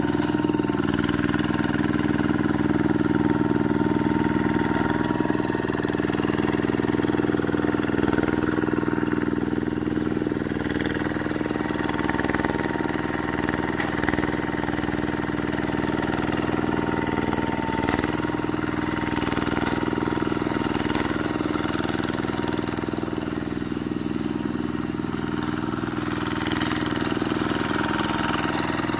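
Quick G1000 two-wheel hand tractor's engine running steadily while clearing scrub, holding an even pitch.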